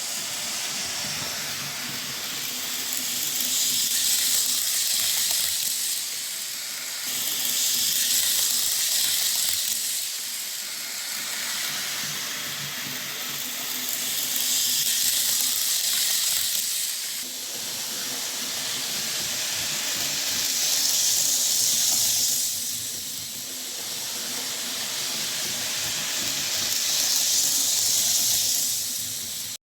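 TT-scale PIKO ICE model train running on its track, a steady hiss of wheels and motor that swells and fades several times as it laps past.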